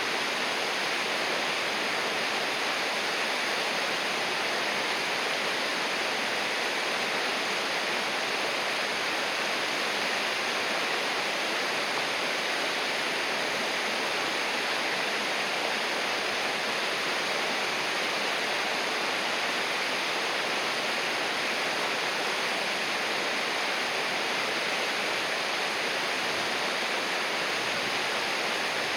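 River water rushing steadily: an unbroken, even rush of flowing water, brighter than it is deep.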